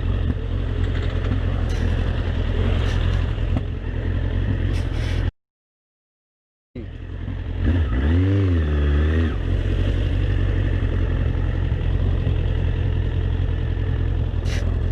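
Vehicle engine and road noise, a steady low rumble, broken by a cut to dead silence for about a second and a half about five seconds in. After the cut it resumes with a brief wavering pitched sound about eight seconds in.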